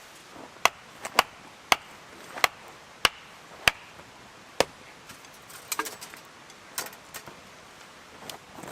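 Firewood being chopped or split with a blade: about a dozen sharp knocks at uneven intervals, with a few quicker, lighter taps in between.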